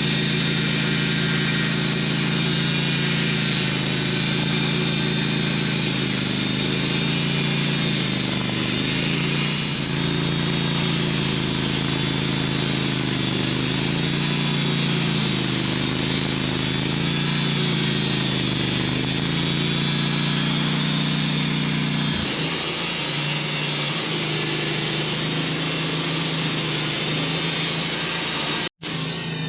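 Sawmill engine running steadily under load while the saw cuts a big hickory log into slabs. The sound shifts and eases a little about three-quarters of the way through, then cuts out abruptly for a moment near the end.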